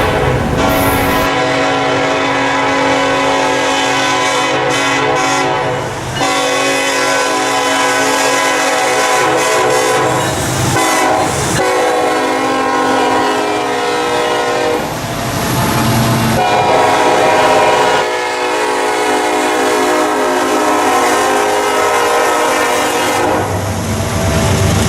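Excursion train's locomotive air horn sounding a series of long blasts, each several notes held steady at once, with short breaks between them.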